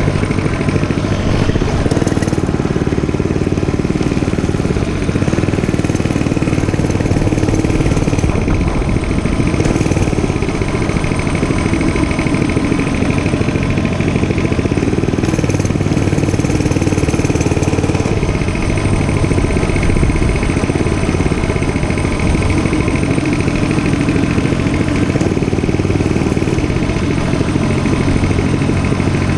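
Dirt bike engine running steadily during a ride, its note swelling and easing slightly every few seconds.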